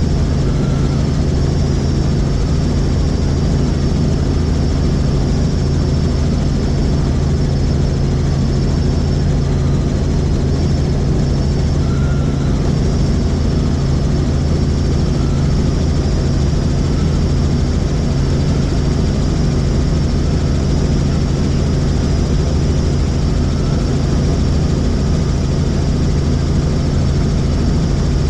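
Helicopter in flight heard from inside the cabin: a loud, steady drone of engine and rotor with a faint high whine above it.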